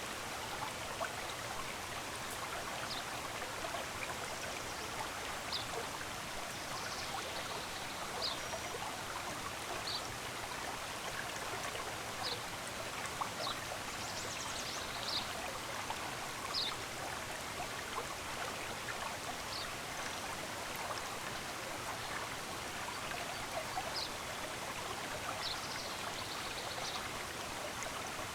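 Steady rushing of a stream of running water, with short high bird chirps repeating every second or two and a few brief trills.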